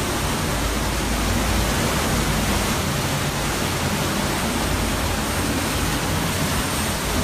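Hurricane wind blowing hard and steadily as one continuous rushing noise, which the speaker puts at about 160 to 170 miles an hour.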